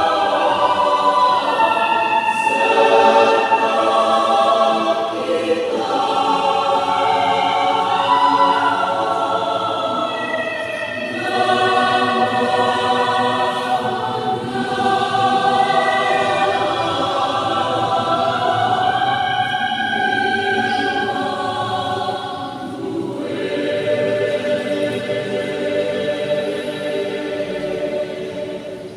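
Youth choir singing, many voices holding long sustained notes together.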